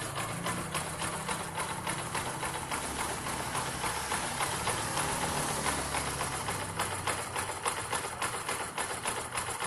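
Kawasaki Rouser 135 LS motorcycle's single-cylinder four-stroke engine idling, a steady, even chugging.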